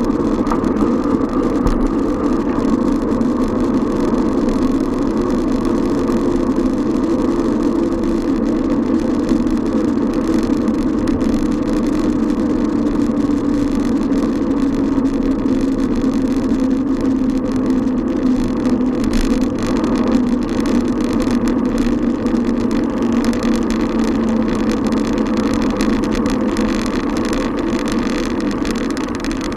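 Steady running noise recorded on a moving bicycle, with a hum that slowly falls in pitch over about twenty seconds and a few light clicks.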